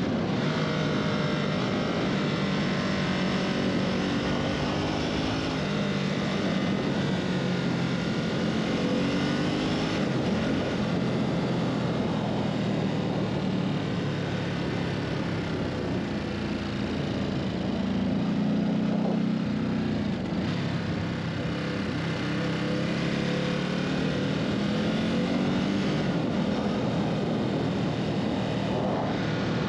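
Ducati Supersport's L-twin engine running under way, its pitch rising and falling as the revs change, over a steady rushing noise.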